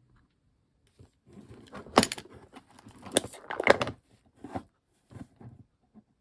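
A run of clicks, knocks and clattering from small hard objects being handled, with some rustling. The sharpest knocks come about two seconds in and again between three and four seconds in, followed by a few fainter clicks.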